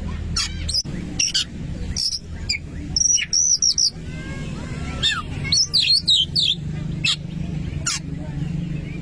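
Oriental magpie-robin (kacer) singing: a run of sharp chirps and clear whistled phrases, some sliding up and down in pitch, with a busy warbling passage in the middle, over a steady low hum.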